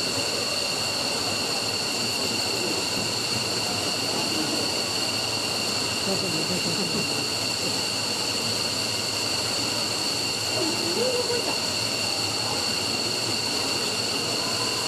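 An F-15's twin F100 turbofan engines running steadily during a ground run, with a constant high turbine whine over a broad rush of jet noise.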